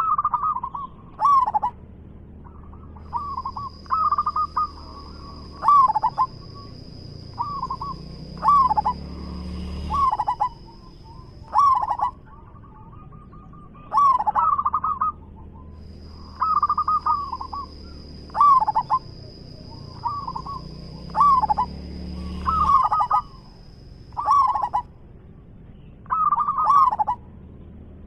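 Zebra dove (perkutut) cooing over and over in short, quavering phrases about every second or two. A steady high-pitched whine runs under the coos in two long stretches.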